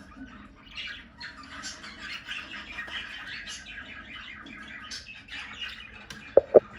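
Budgerigars chattering: a steady stream of short chirps and warbles, with two short, loud sounds near the end.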